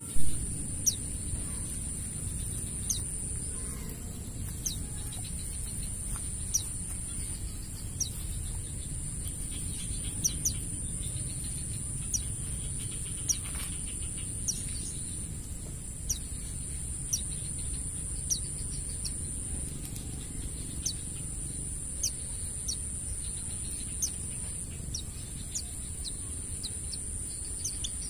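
White-eye (pleci) birdsong: a continuous very high-pitched trill with short, sharp falling whistle notes every second or two, over a low background hum.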